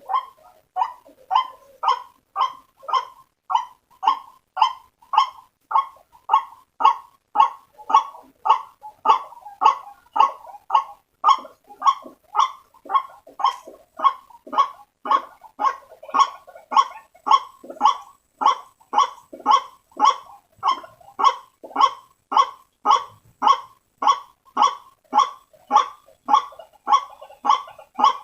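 White-breasted waterhen (ruak-ruak) giving its harsh, repeated lure call, a steady run of short croaking notes about two a second, as played to draw other waterhens in.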